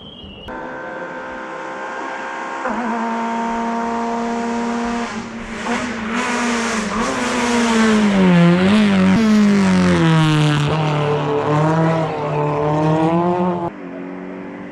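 Hill-climb race car engine accelerating hard through several gear changes as it approaches and passes, its pitch rising and dropping with each shift. It gets loudest about halfway through, then cuts off abruptly near the end.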